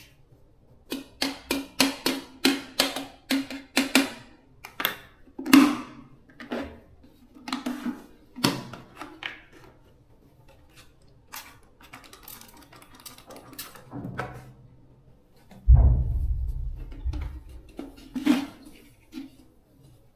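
A series of knocks and taps: a quick run of about three a second over the first few seconds, then scattered strikes, with a heavier low thud and rumble about three-quarters of the way through.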